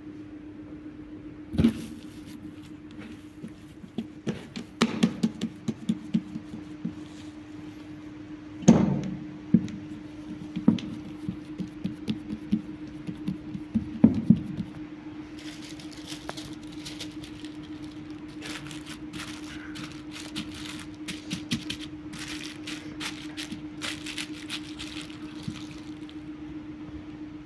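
Irregular knocks and thuds of food preparation, loudest about 2, 9 and 14 seconds in, then a long run of fast, light clicks and crackles in the second half, over a steady low hum.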